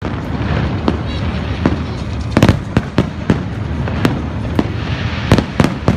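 Aerial fireworks going off: a steady low rumble of launches and bursts with many sharp cracks at irregular intervals, several in quick succession.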